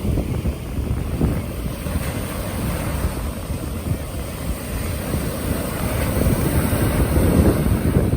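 Wind buffeting the microphone in a steady low rumble, with sea waves on the shore behind it.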